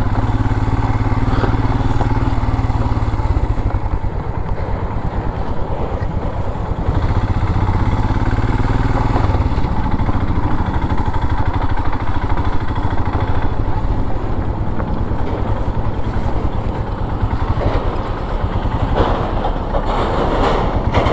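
Royal Enfield Himalayan motorcycle engine running steadily under way on a rough, unpaved dirt road.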